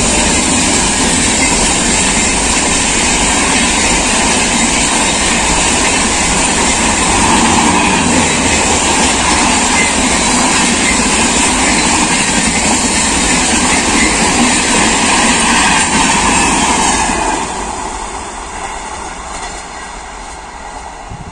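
Express train's passenger coaches rushing past at speed, a loud steady rumble of wheels on rail. A little over three-quarters of the way in the sound drops and fades as the tail of the train runs away.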